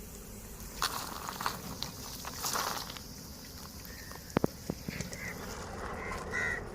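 Hot oil sizzling and crackling as battered chicken pieces deep-fry, with a few sharp clicks a little past the middle.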